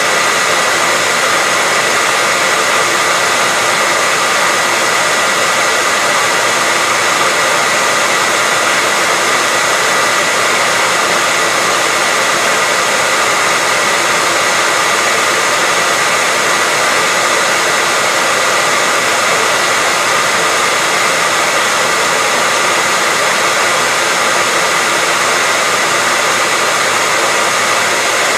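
Hair dryer running continuously: a steady rushing blow of air with a constant motor whine on top, no changes in speed.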